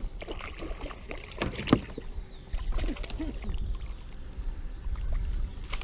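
Scattered knocks and light clatter from handling on a plastic fishing kayak, the loudest knock about a second and a half in, over a steady low rumble.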